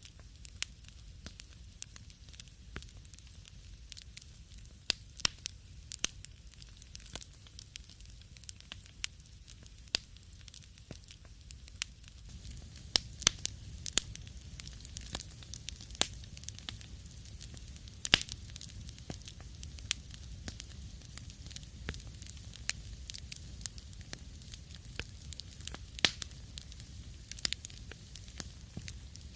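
Wood fire crackling in a fireplace: irregular sharp pops and snaps over a low steady rumble of flame. The background gets slightly louder about halfway through.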